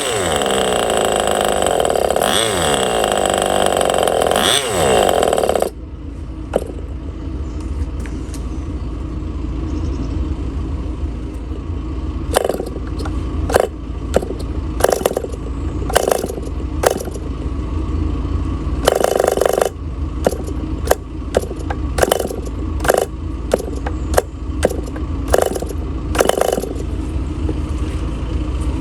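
Enya .15CX 2.45 cc two-stroke glow engine running fast, then throttled back abruptly about six seconds in. It then runs at low speed with a steady low note broken by short, uneven bursts every second or so.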